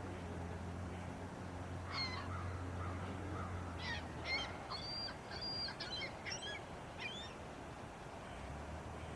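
A bird calling in a quick series of short, sharp, high calls for several seconds, over a steady low hum that drops out about halfway and returns near the end.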